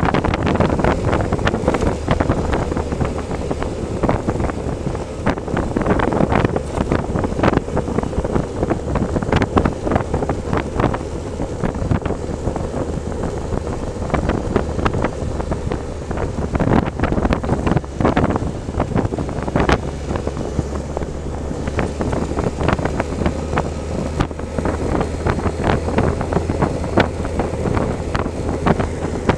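Heavy wind buffeting on the microphone while riding a motorcycle, over a steady low engine hum that grows a little stronger after about 20 seconds.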